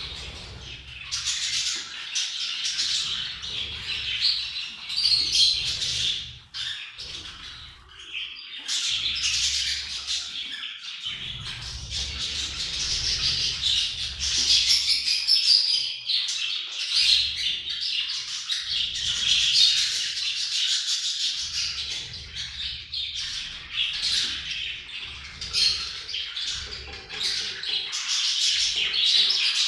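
A group of budgerigars chattering and warbling without a break, with rapid clicks, chirps and squawks, the kind of chatter given as budgie mating calls.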